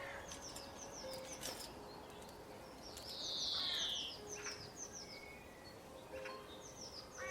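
Several birds singing and chirping in short, quick high notes over a steady background hiss. About three seconds in, one louder harsh call falls in pitch over about a second.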